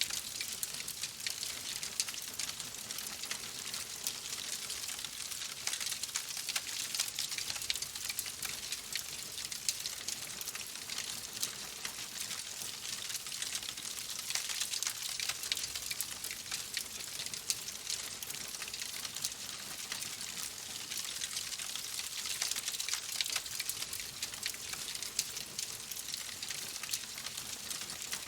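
Wood fire crackling in a fireplace: a dense, steady run of small pops and snaps over a soft hiss.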